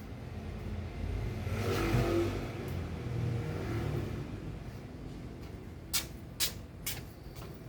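A motor vehicle passing by, its engine and road noise rising and then fading, followed by three sharp clicks near the end.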